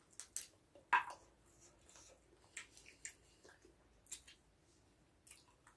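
Chewing of spicy chicken feet: scattered soft, wet mouth clicks and smacks, the loudest about a second in.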